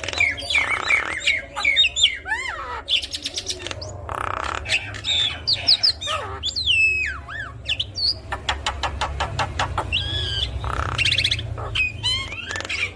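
Javan myna singing a varied, busy song: whistled notes sliding up and down, quick clicking rattles and harsh squawking bursts in quick succession. A low steady hum sits underneath.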